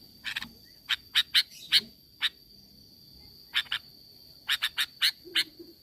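Sooty-headed bulbul (kutilang) calling in runs of short, sharp notes: a quick run about a second in, a pair a little past the middle, and another quick run near the end.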